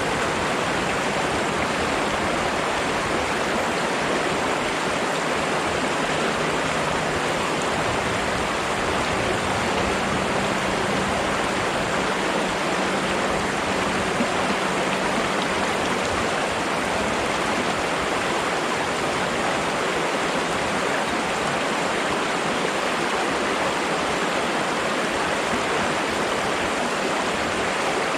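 Flowing water rushing steadily, an even unbroken sound like a stream or small cascade.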